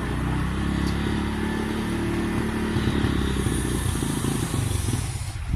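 A motor vehicle engine running steadily, its hum breaking up and dying away near the end.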